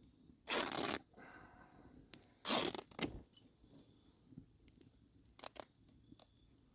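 Old cotton shirt being ripped into strips for charcloth: two loud tears, about half a second in and about two and a half seconds in, then a few faint clicks.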